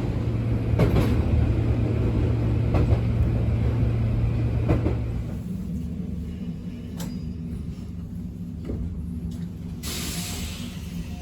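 Cabin noise of an Abukuma Express 8100 series electric train running on the line: a steady low hum over rumble that cuts off about halfway, after which the car runs more quietly, with a few sharp clicks from the wheels on the rails.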